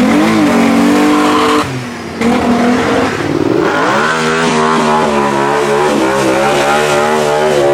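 Car engine being revved: held briefly, let drop, then brought up again about three and a half seconds in and held at steady high revs with a slight wavering.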